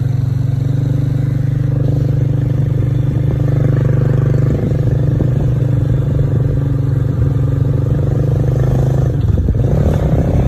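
A motor vehicle engine running steadily close by: a low, even hum with some clatter, its note shifting about four and a half seconds in.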